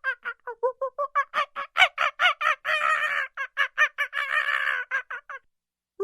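Chicken calling in a fast run of short repeated notes, about six a second, with two longer, harsher calls in the middle. It stops for about half a second near the end.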